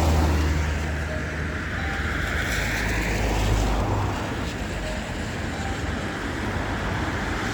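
Road traffic on a wet street: a passing vehicle's tyre hiss swells to a peak about three seconds in and fades, over a steady low rumble.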